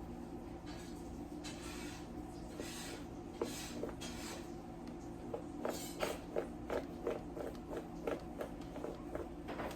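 Soft rustling, then from about halfway a run of short, soft wet clicks about three a second from a mother dachshund and her newborn puppies, over a steady low hum.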